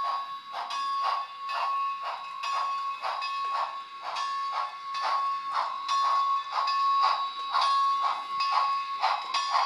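Locomotive bell sound from an HO scale steam locomotive model's sound decoder, ringing steadily and very loud at about three strokes a second through the model's small speaker.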